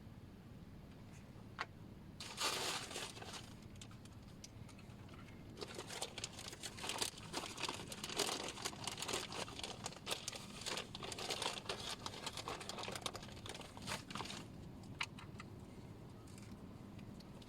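Rustling and crinkling handling noise: a dense run of short crackles from about two seconds in, thinning out near the end.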